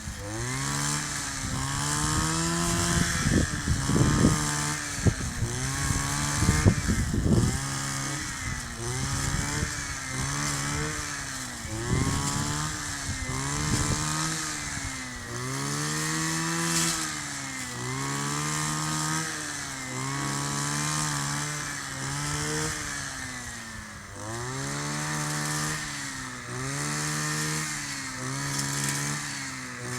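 Kioritz 260 two-stroke brush cutter running under load, its engine speed swelling up and dropping back again and again, about every two seconds, as it cuts through tough reeds and grass. Low knocks and rumble mix in over the first several seconds.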